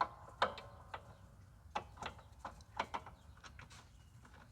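Irregular metallic clicks and knocks of hand work on a Toro TimeMaster mower's belt and tensioner, a few with a brief ring.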